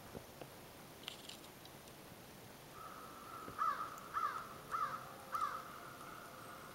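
A bird calling four times in a quick series, a little over half a second apart, about halfway through, over a faint steady tone at about the same pitch.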